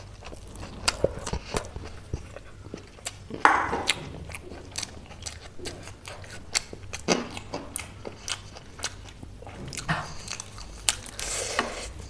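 Close-up mouth sounds of someone chewing food with a full mouth, with wet clicks and smacks scattered irregularly throughout.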